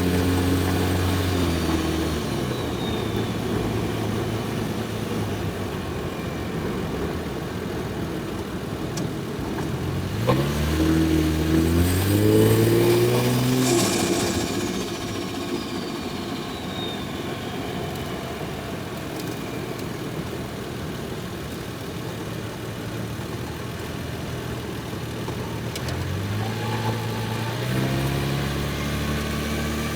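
Toyota Soarer's single-turbo 1JZ straight-six engine heard while driving. Its pitch drops at the start, it pulls up through the revs about ten seconds in and again near the end, and after each pull a high whistle glides down in pitch as the throttle closes.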